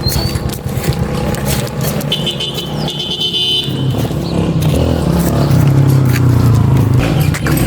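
A motor vehicle's engine running, with a brief high-pitched tone about two seconds in.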